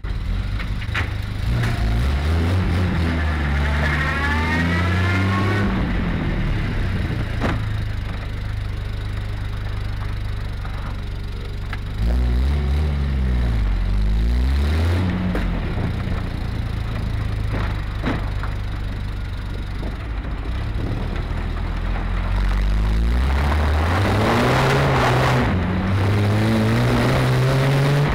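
Triumph TR6 straight-six engine pulling on the road. It accelerates, its pitch climbing and then dropping at each gear change, with a few such runs through the gears and a jump in loudness about halfway through.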